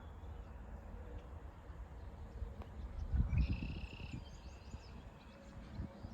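Outdoor ambience with a steady low rumble of wind on the microphone, and a short high-pitched chirp lasting under a second about three and a half seconds in.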